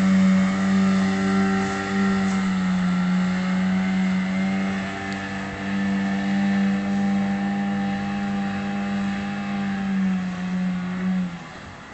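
Parsun 9.8 two-stroke outboard motor running steadily under way with a constant engine note; near the end the note and level drop off sharply.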